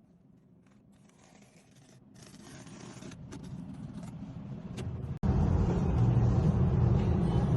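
A noise that grows steadily louder, then cuts abruptly about five seconds in to a loud, steady low rumble.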